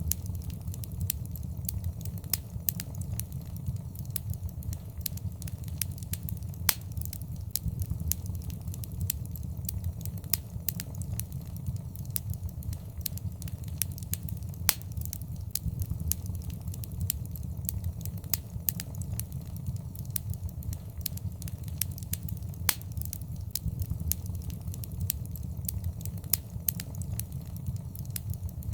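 Wood fire burning in a fireplace: a steady low rumble of flames under constant crackling and popping, with a few louder pops scattered through.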